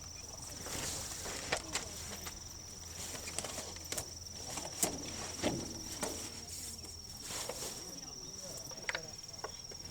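A steady high-pitched insect trill, typical of a cricket, with scattered short clicks and knocks of camping gear being handled.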